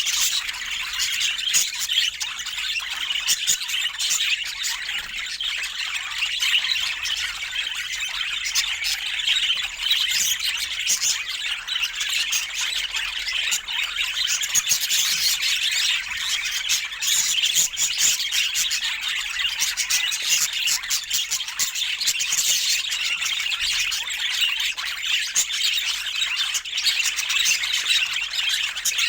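Budgerigars chattering steadily, a dense, unbroken mix of high chirps, warbles and quick clicks.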